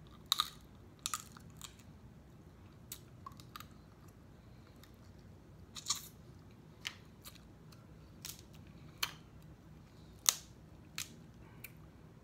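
Close-miked eating: chewing and wet mouth smacks over snow crab meat, heard as about a dozen short sharp clicks, the loudest about ten seconds in.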